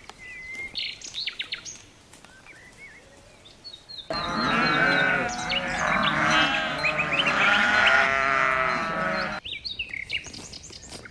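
Scattered bird chirps, then about four seconds in a flock of small livestock breaks into loud bleating: many overlapping bleats for about five seconds that stop abruptly, after which the chirping returns.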